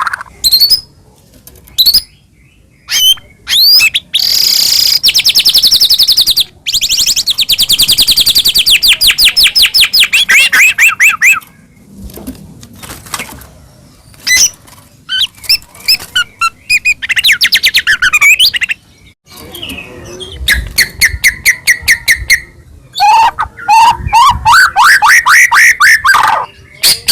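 White-rumped shama (murai batu) singing loudly. Long runs of rapidly repeated notes, several seconds each, alternate with short whistled phrases and brief pauses.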